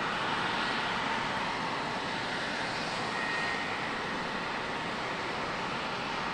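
Jet airliner engines running with a steady rushing noise that holds an even level.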